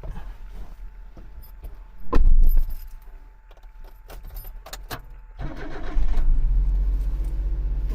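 Keys jangling with small clicks and a loud low thump a couple of seconds in, then about two-thirds of the way through a kei camper van's engine starts and runs steadily at idle.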